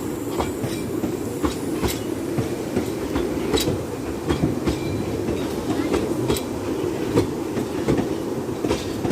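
Talyllyn Railway narrow-gauge train running along the track: a steady low rumble with irregular clicks and knocks from the wheels over the rail joints.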